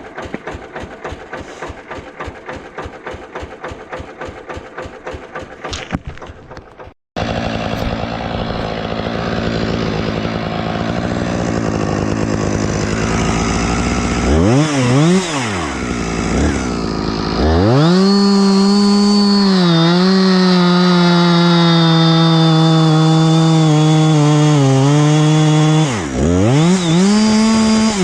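Husqvarna chainsaw. After a brief break it is revved up and down twice, then held at full throttle for about eight seconds with small dips as it cuts, then revved again near the end. The first seconds hold a fast, even putter.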